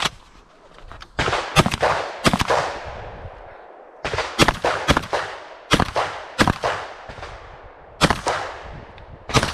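12-gauge Beretta 1301 semi-automatic shotgun fired in quick strings of shots, each shot with a short echoing tail. There are three strings: about four shots starting a second in, about six a few seconds later, and a few more near the end, with brief pauses between.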